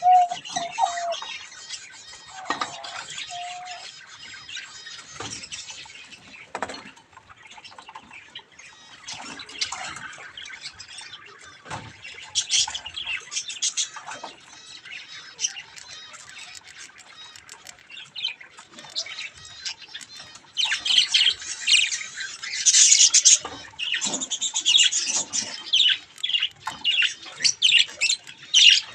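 Budgerigars chattering and squawking, a rapid jumble of high chirps that grows louder and busier about two-thirds of the way through.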